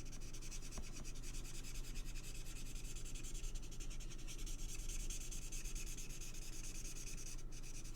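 A marker nib scratching over cardstock in rapid back-and-forth strokes as an image is coloured in, a steady scratchy rubbing.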